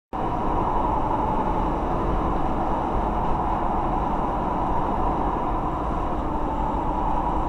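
Steady road and engine noise of a moving vehicle, starting abruptly at the outset.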